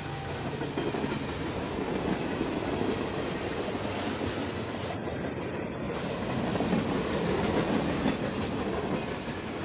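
Norfolk Southern freight train's boxcars and covered hoppers rolling past close by, steel wheels running on the rails in a steady rumble.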